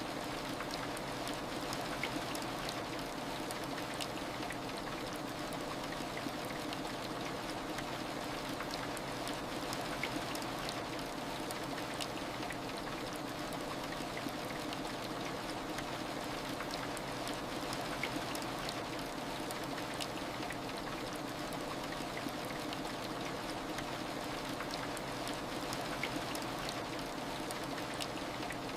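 Steady heavy rain: an even, continuous hiss of rainfall with faint scattered drop ticks.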